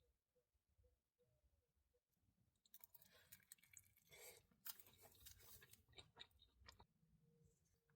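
A person chewing food close to the microphone. It is faint for the first few seconds, then dense, irregular crunchy chewing runs from about three seconds in for several seconds.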